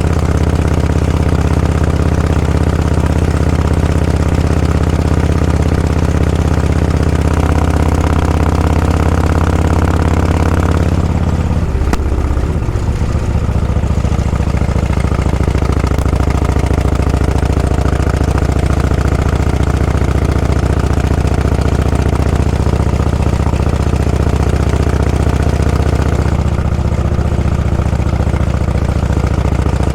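A vehicle engine running steadily at low revs. Its pitch drops and changes about twelve seconds in, and shifts again a few seconds before the end.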